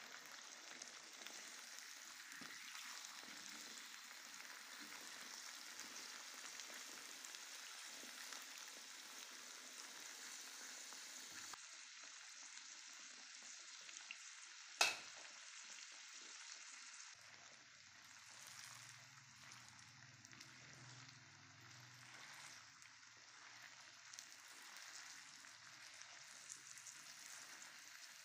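Potato sticks frying in shallow oil in a non-stick pan, a steady sizzle, turned now and then with a slotted spatula. A single sharp click a little past the middle.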